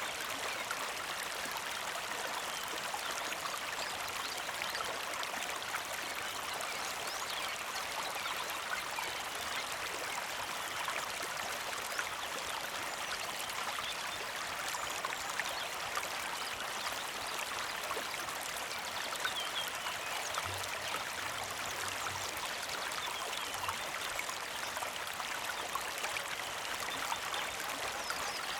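Small mountain creek flowing steadily, with a gentle trickle and many small drips and splashes.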